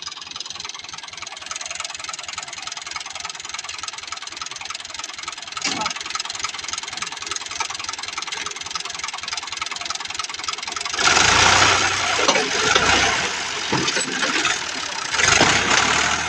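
Tractor engine running steadily with a fast, even pulsing. About eleven seconds in it gets much louder, as if revved hard under load, eases briefly, then surges again near the end.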